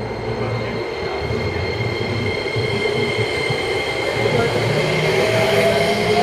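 JR Musashino Line electric commuter train pulling out of the station along the platform, its wheels and motors rumbling with a steady high whine. Near the end a whine rises in pitch as the train gathers speed.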